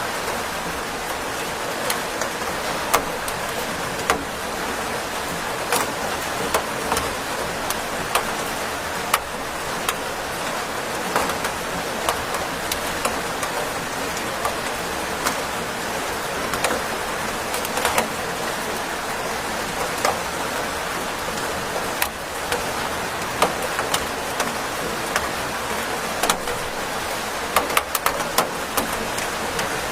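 Steady rain falling, an even hiss with frequent sharp ticks of drops striking a hard surface.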